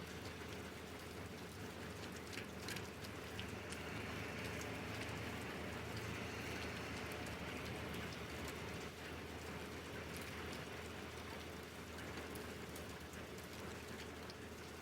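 Steady rain falling, with scattered sharp ticks of individual drops striking.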